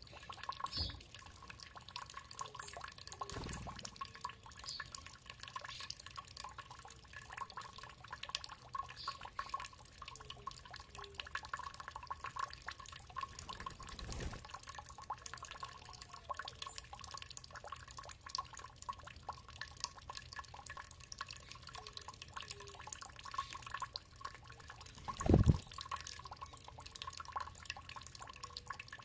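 Water dripping and trickling in a steady patter of small drops, with a few short low thuds, the loudest about 25 seconds in.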